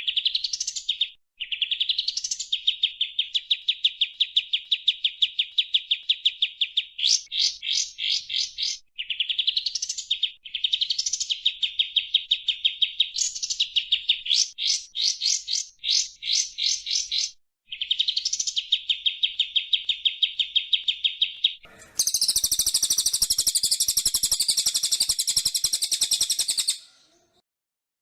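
Small songbird singing in bursts of very fast trills. Each burst opens with a quick rising note and runs on as a rapid buzzing trill, with short gaps between bursts. About 22 seconds in, a harsher, higher, buzzier trill takes over for about five seconds and then stops.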